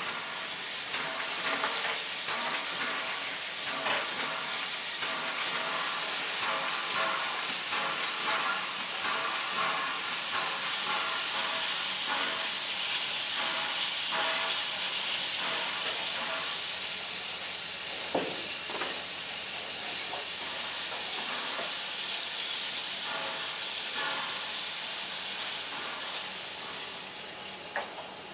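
Steam locomotive R707, a Victorian Railways R class, giving off a loud, steady hiss of steam, with faint metallic ringing tones and scattered small clicks, and a single knock about eighteen seconds in.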